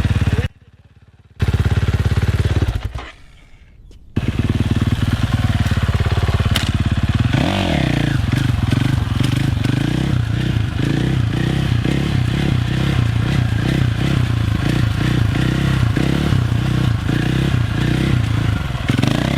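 Dirt bike engine running, its sound swelling and fading in an even rhythm about twice a second. The sound cuts out twice briefly near the start.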